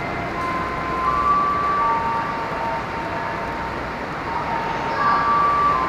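KRL Commuter Line electric train running on the rails: a steady rumbling noise with thin high tones that come and go, loudest about a second in and again near the end.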